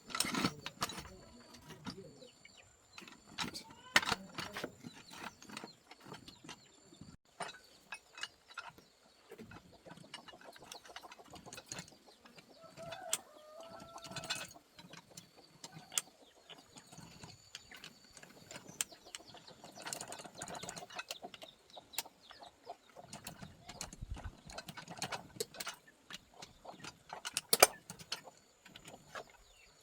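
Scattered clicks and metal knocks of hand tools working on a rice separating machine, a louder knock about 4 seconds in and another near the end. A chicken clucks in the background around the middle.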